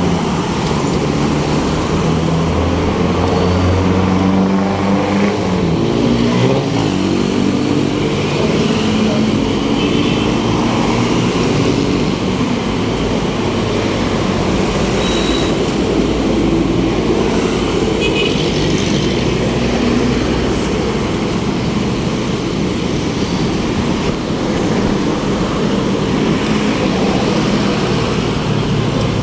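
Road traffic: motor vehicle engines running close by over a steady road rumble, with one engine's pitch rising and falling during the first several seconds.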